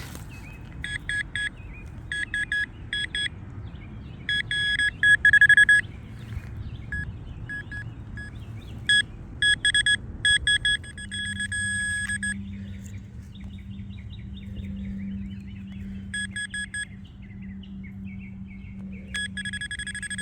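Metal detector beeping in rapid pulsed trains at one steady pitch as it is worked over a hole, signalling metal still in the soil (remaining pieces of a locket chain). The beeping comes in several clusters, and near the end it changes to an unbroken tone.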